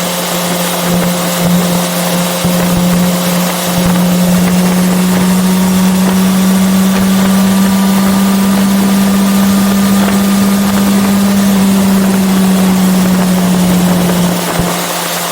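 Yamaha FZ6R's inline-four engine running at a steady, fairly high pitch while the motorcycle cruises, with wind rushing over the microphone. The engine note eases slightly near the end.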